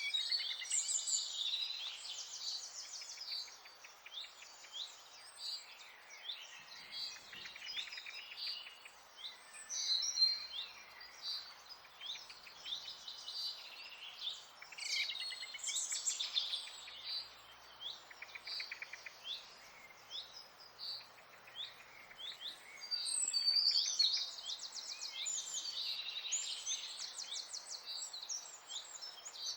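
Several birds singing and chirping at once, with quick trills and short whistled notes overlapping all through, over a steady soft hiss.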